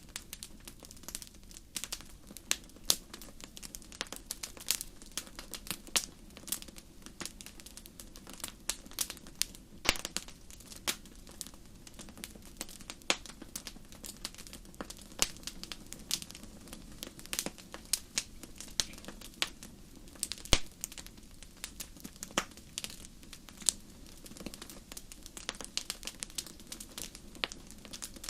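Fire burning in a fireplace, crackling with irregular sharp pops and snaps over a low steady rush of flame.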